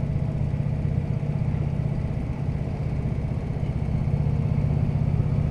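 Harley-Davidson touring motorcycle's V-twin engine running steadily while riding along slowly, a low even hum with road and wind noise under it.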